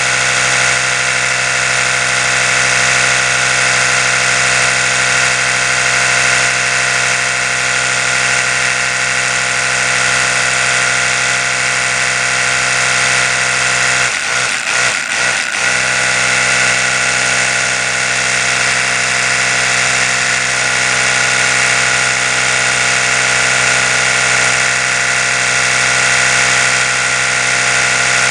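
Oral-B electric toothbrush running with a steady, high-pitched buzz, which briefly wavers and dips about halfway through.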